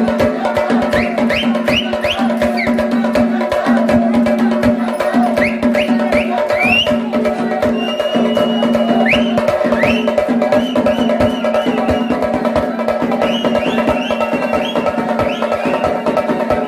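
Procession drums beating fast and continuously, with a steady held tone underneath and short rising whistle-like glides every few seconds.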